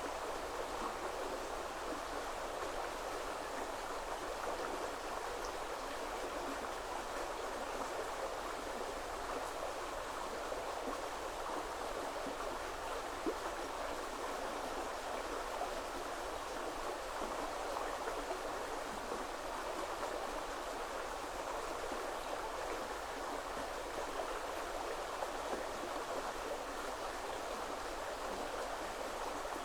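Shallow woodland river flowing over stones, a steady rushing and babbling of water.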